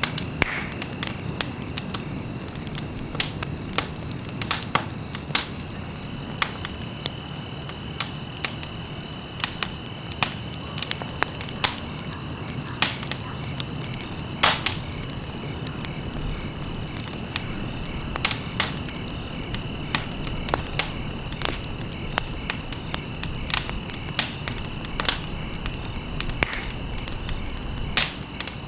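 Wood fire in a fireplace crackling, with irregular sharp pops over a low steady rumble of flame; one pop about halfway through is louder than the rest.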